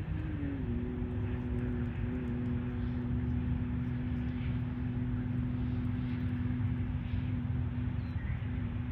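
Steady low motor drone whose pitch drops slightly about half a second in and then holds, with faint short high chirps now and then.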